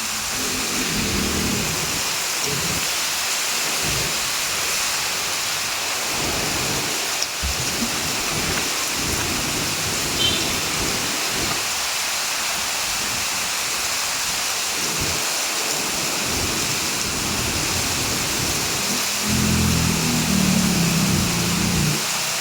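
Heavy rain falling steadily, an even hiss. A low droning sound joins it near the end.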